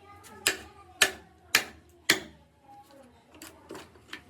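A hand tool striking wood in sharp knocks: four strong strikes about half a second apart, then a few lighter taps near the end.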